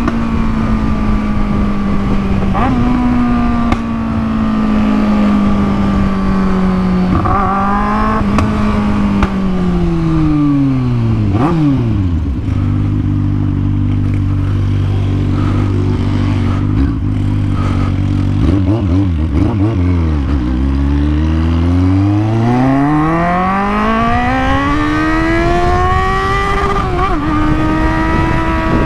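Kawasaki Z750 inline-four motorcycle engine with a free-flowing aftermarket exhaust, running under way with a few quick gear changes. About twelve seconds in it slows to a steady idle for several seconds, then pulls away with a long rising rev and shifts near the end.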